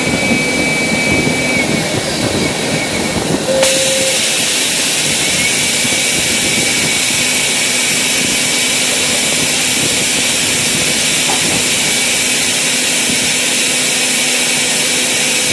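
Steady machinery hum with a few steady tones, joined abruptly about three and a half seconds in by a loud, steady hiss that holds level to the end.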